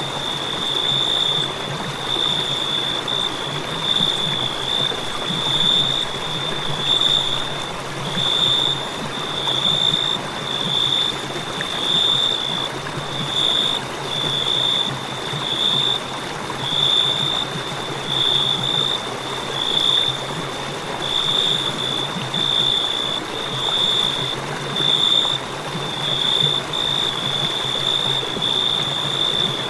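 Crickets chirping: a high, steady trill that swells and fades in pulses about once every second or so, over a steady hiss.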